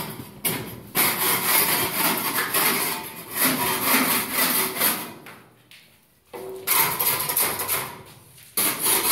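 Hand rasp scraping along the plaster edge of a stair, in several long rasping strokes with brief pauses between them: loose plaster and burrs being cleaned off before the edge is refilled with gypsum plaster.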